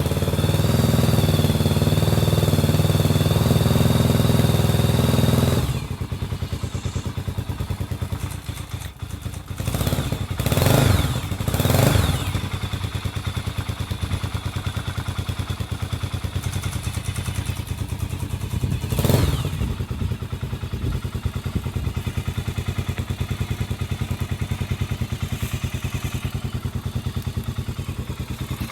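Honda CB400SS single-cylinder engine running through a Moriwaki short classic full exhaust, just after starting. It runs higher and louder for about the first six seconds, then drops to an even, pulsing idle, with three short throttle blips: two close together, then one more a little later.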